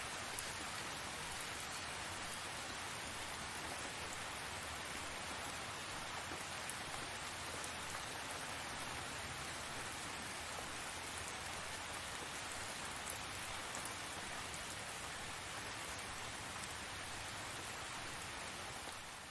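Steady tropical rain falling, with scattered sharp ticks of individual drops striking.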